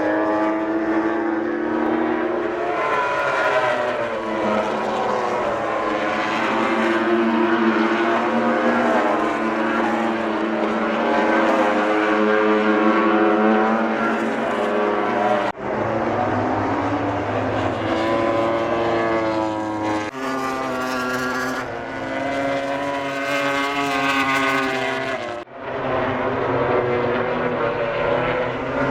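MotoGP racing motorcycle engines at race speed, several bikes at once, their pitch rising and falling as they accelerate and brake past. The sound breaks off sharply three times, about halfway in, a few seconds later and near the end.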